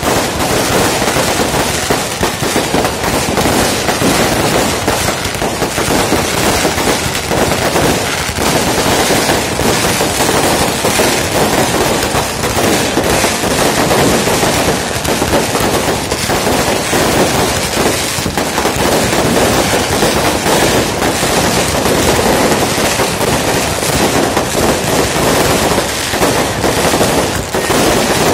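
New Year fireworks going off in a dense, continuous barrage, many bangs and crackles overlapping with no pause.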